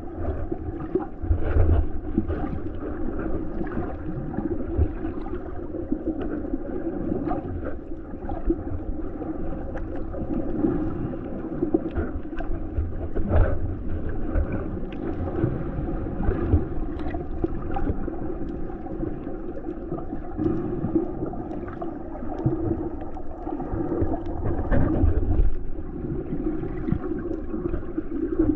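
Muffled sea water sloshing and gurgling around the microphone, with irregular low rumbles and knocks, strongest about two seconds in, near the middle and near the end.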